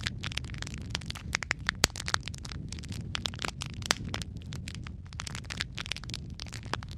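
Wood fire of burning logs crackling and popping, with frequent sharp snaps over a steady low rumble of flame; the loudest pop comes a little under two seconds in, another near four seconds.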